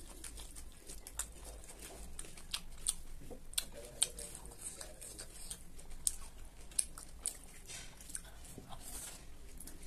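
Close-up chewing of a crunchy salad of shredded raw cabbage and vegetables with rice: wet mouth sounds broken by many short, sharp crunches and clicks at an uneven pace.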